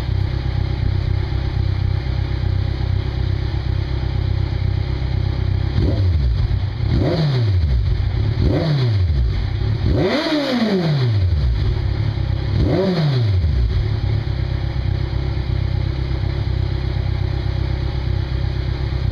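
2012 Kawasaki Ninja 1000's inline-four idling through Vance & Hines CS One slip-on exhausts fitted with 2-inch baffles, then revved in about five quick throttle blips starting about six seconds in. The blip near the middle goes highest and lasts longest, and the engine settles back to a steady idle for the last few seconds.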